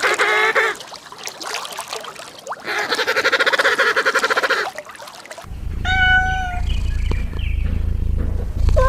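Two long, quavering animal calls, then a low steady hum begins and a cat gives one short, high meow.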